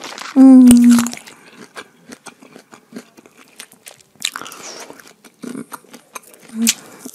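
Close-miked chewing and lip-smacking of juicy pineapple chunks: a steady run of small wet clicks and smacks. About half a second in, a loud, short hummed "mmm" of the voice.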